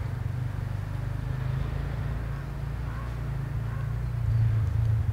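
A steady low rumble, with no other clear sound over it.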